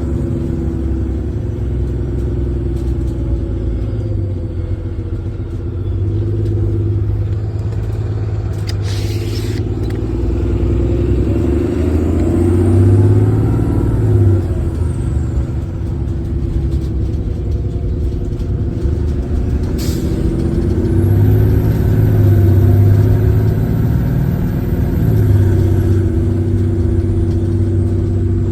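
Diesel engine of a 2018 Thomas HDX school bus running under way, its pitch rising and falling twice with the exhaust brake working. Two short sharp hisses, about 9 and 20 seconds in.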